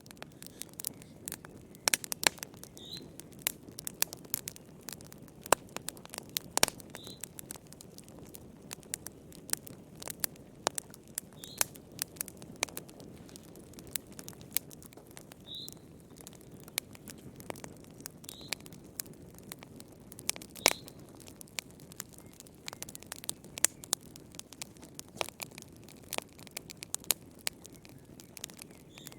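Wood fire burning in a fireplace: irregular sharp crackles and pops, some much louder than others, over a steady low rush of the flames, with a faint short high whistle every few seconds.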